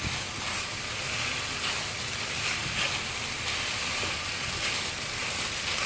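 Minced chicken sizzling steadily in a pan over high heat as it is stir-fried to caramelize, with faint ticks of stirring.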